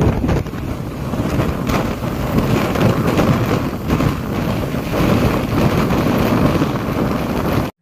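Strong blizzard wind buffeting the microphone: a loud, gusting rush with a heavy low rumble.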